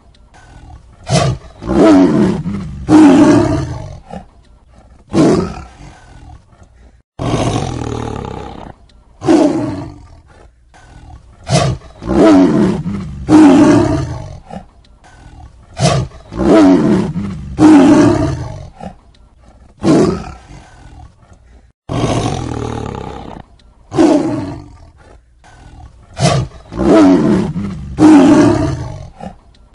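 Tiger roaring over and over, a string of short loud roars one to two seconds apart, with abrupt cuts between recordings.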